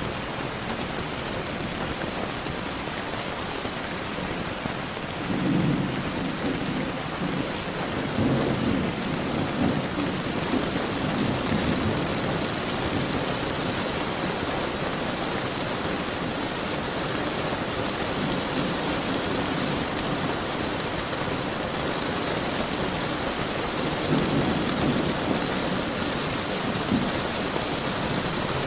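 Steady rain falling, with low rolls of thunder rumbling several times, the longest lasting a few seconds.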